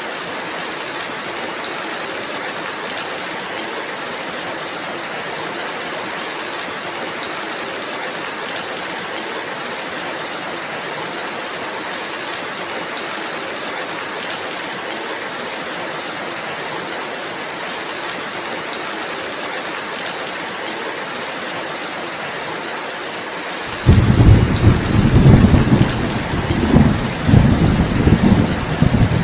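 Steady rainfall. Near the end, a loud, low thunder rumble breaks in suddenly and rolls on, swelling and fading several times, over the rain.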